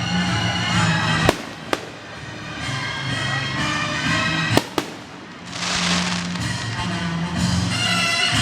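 Fireworks exploding: two sharp bangs close together about a second in, two more about three seconds later, and a hissing crackle a little past halfway. Music plays underneath throughout.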